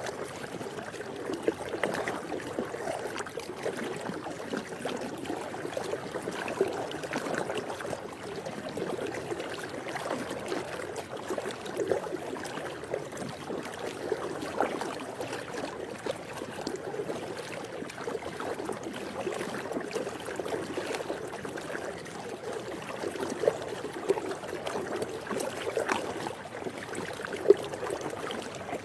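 Swimming pool water lapping and sloshing in a steady, crackling wash of small splashes, with a few brief louder splashes near the end.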